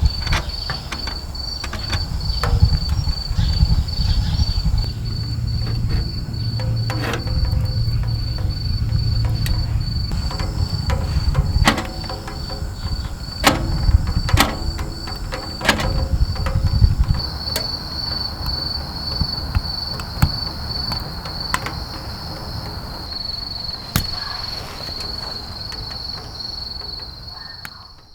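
An insect chirping in a rapid, steady pulsing trill that gets louder about two-thirds of the way through. Scattered sharp clicks and knocks and a low rumble sound beneath it.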